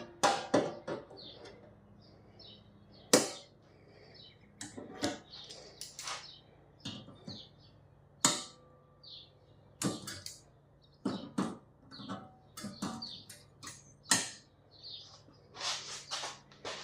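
Irregular sharp knocks and clicks, the loudest about three seconds in and again about eight seconds in, with short high bird chirps between them.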